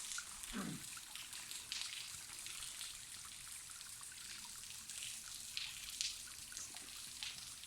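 Thin trickle of water falling from a nearly dry waterfall, with scattered drips and small splashes.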